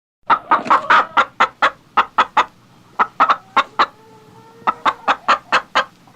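Chickens clucking: a long run of short, sharp clucks, several a second, with a few drawn-out softer notes in the middle.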